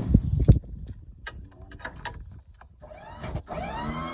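Metal lift gate on a box truck being folded up by hand: two loud clunks at the start and a few clicks, then from about three seconds in a creaking squeal that slides down in pitch.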